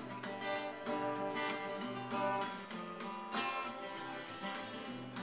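Music led by a strummed acoustic guitar, a steady run of chords.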